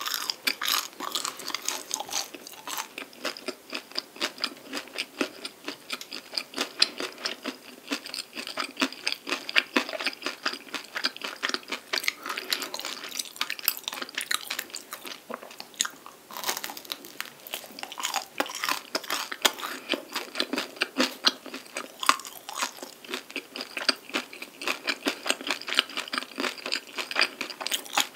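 Bites into a canelé and chewing, its crisp crust crunching in many sharp crackles all the way through, between softer chewing of the moist custardy inside.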